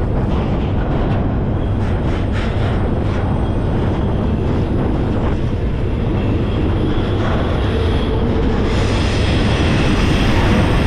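Freight train running, heard from aboard a car: a steady, loud rumble and rattle of wheels on the rails, with a few sharp clicks in the first few seconds and a slight rise in loudness near the end.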